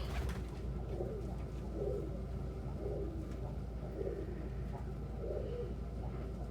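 Domestic pigeons cooing, a low coo repeated about once a second.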